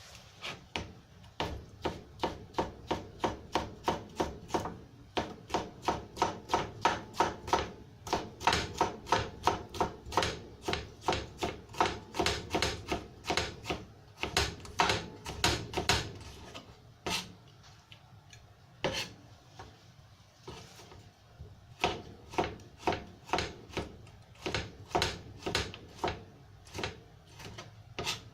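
A knife cutting on a wooden cutting board in a steady run of sharp strokes, about two a second, thinning out to slower, spaced strokes about halfway through.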